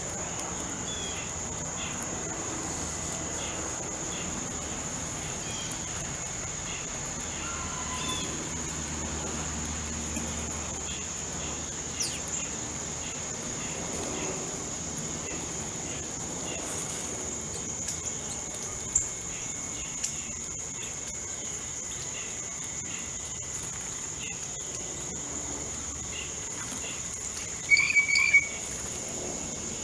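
A steady high-pitched insect drone, like crickets, runs under scattered short bird chirps from small backyard birds. A sharp tick comes about two-thirds through, and near the end a louder burst of three quick bird calls stands out.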